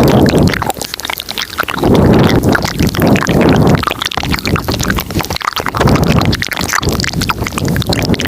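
Layered ASMR mouth sounds recorded close to the microphone: a dense run of wet clicks and smacks, with low breathy swells several times over.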